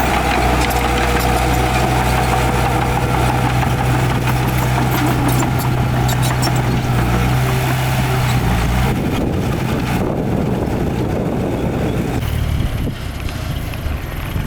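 Heavy diesel engine of earth-moving machinery running steadily, with light metallic rattles. About nine seconds in its steady note gives way to a rougher, changing sound, which grows a little quieter near the end.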